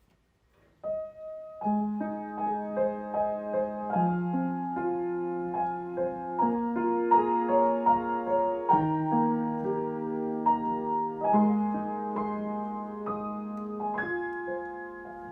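Solo piano music, a slow, gentle piece of held chords and single melody notes beginning about a second in.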